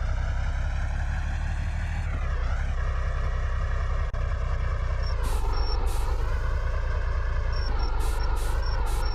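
Truck engine running with a steady low rumble. A high, wavering multi-pitched tone sounds over it, and from about halfway through there are short repeated high beeps and clicks.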